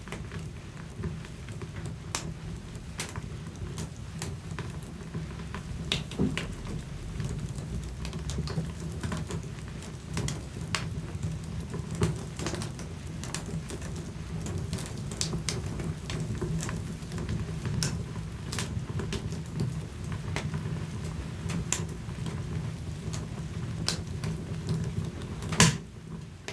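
Wood fire in a fireplace crackling, with irregular sharp pops over a steady low rumble of the flames; one louder pop comes near the end.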